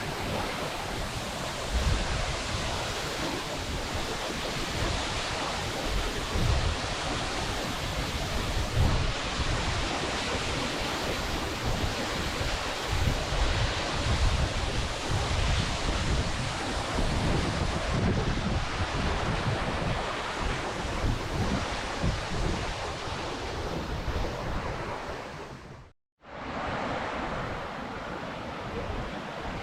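Steady rushing water of the Steinsdalsfossen waterfall, with wind buffeting the microphone in low gusts. About 26 seconds in, the sound cuts out for a moment and comes back steadier.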